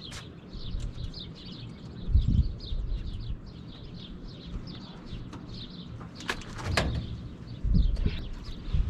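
Birds chirping over and over in short falling notes, with a few low thumps and a couple of sharp clicks.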